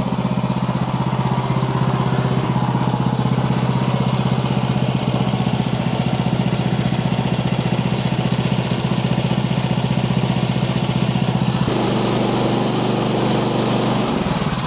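Portable bandsaw sawmill's small gas engine running steadily. About twelve seconds in the sound changes and a hiss rises in the highs.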